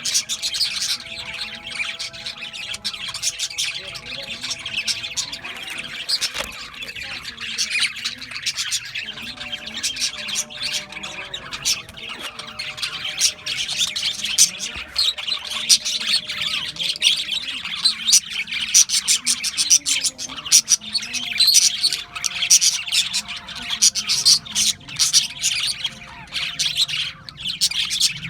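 A flock of budgerigars chirping and chattering without a break, a dense mix of short high chirps and squawks.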